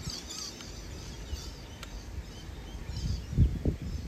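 Birds chirping in short high calls over a low background rumble, which swells into louder, uneven low surges near the end.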